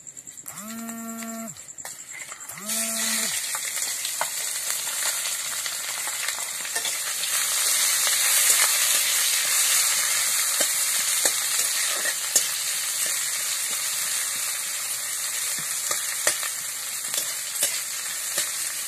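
Chopped onions sizzling in hot oil in a black kadhai, the tempering for poha, stirred with a metal ladle that clicks and scrapes against the pan. The sizzling starts suddenly about three seconds in. A cow moos twice in the first few seconds.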